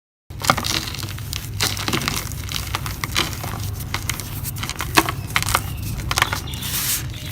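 Dry cement-filled mud cups crumbling, a dense run of sharp crackles and crunches. It begins after a brief moment of dead silence.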